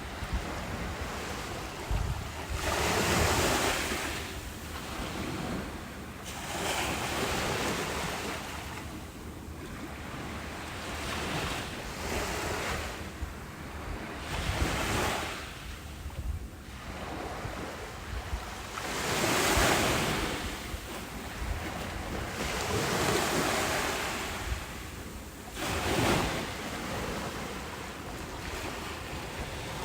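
Ocean waves breaking and washing up a beach, the surf swelling and receding every few seconds, with wind buffeting the microphone.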